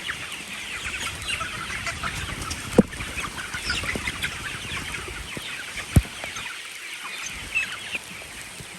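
A flock of chickens clucking and calling, many short high calls overlapping, with two sharp knocks about three and six seconds in.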